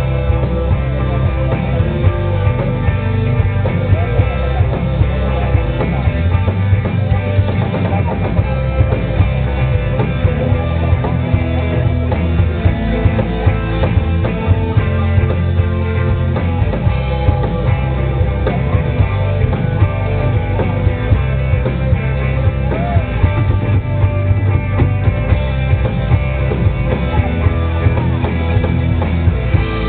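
Rock band playing live: guitars over a drum kit with a steady beat.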